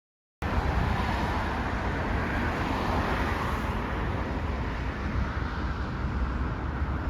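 Steady outdoor ambient noise with a low rumble, cutting in abruptly after a moment of silence.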